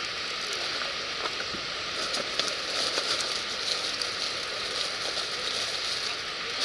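Wood fire burning in a campfire fire pit, a steady hiss with many small scattered crackles and pops.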